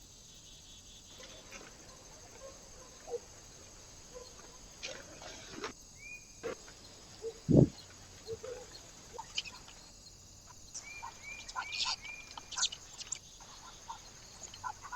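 Small birds at a feeder giving scattered short chirps and high calls, which come more often in the second half. One loud thump falls about halfway through.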